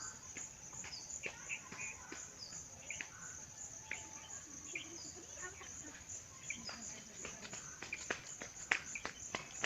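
A high insect trill pulsing steadily, with scattered short bird chirps over it; a run of sharp clicks near the end.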